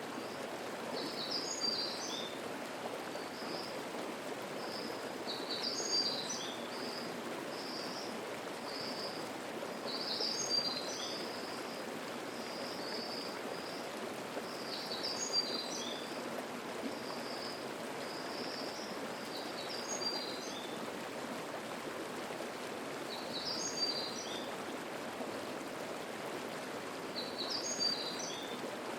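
Mountain stream flowing with a steady murmur, while a songbird repeats a short, high song phrase about every four seconds, with softer notes between the phrases.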